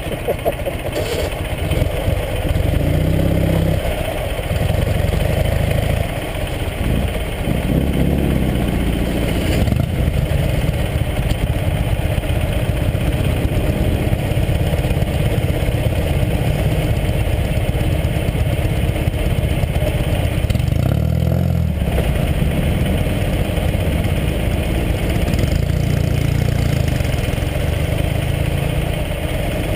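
Ural sidecar motorcycle's air-cooled flat-twin engine running while it rides a dirt trail. Its pitch rises and falls several times as the throttle changes.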